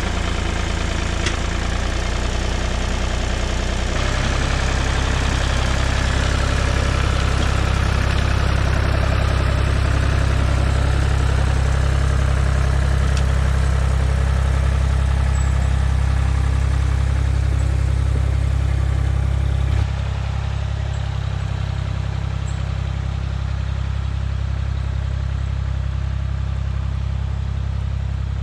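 A heavy engine running steadily with a deep drone. It changes up about four seconds in, then drops back sharply with a brief jolt just under twenty seconds in.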